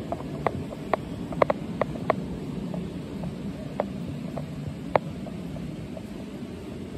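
A mountain stream rushing steadily, with irregular splashes and plinks of water over it.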